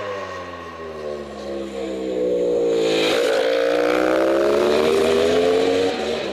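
Racing motorcycle engine dropping in revs, then revving back up hard from about three seconds in, getting louder as it climbs.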